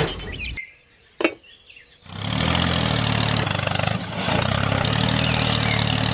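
An engine running steadily with a fast, even pulse, starting about two seconds in after a short quiet gap and a single click.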